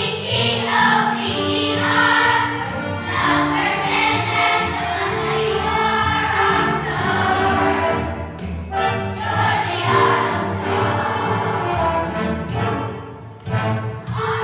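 Third-grade children's choir singing a song over musical accompaniment, with a brief break in the singing near the end.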